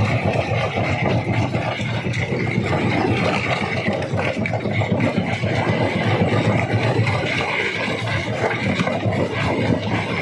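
Stone crusher machine running steadily: a continuous engine drone with rattling and crunching of rock, no break or change in load.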